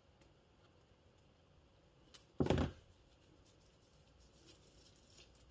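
Faint small clicks and scrapes of metal motor parts being handled during greasing, with one short louder knock or rustle about two and a half seconds in.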